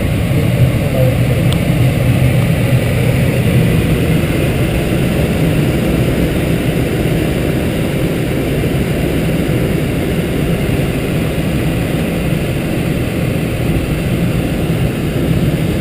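Light aircraft's engine and propeller with rushing airflow, heard from inside the cockpit as a loud, steady drone in flight.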